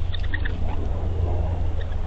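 A few short, high bird chirps in the first half second, over a steady low rumble.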